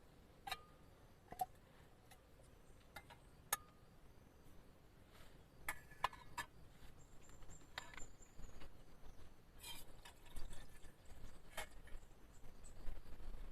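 Faint, irregular light taps and clicks, about a dozen, with a small cluster about six seconds in and more toward the end, over a quiet background.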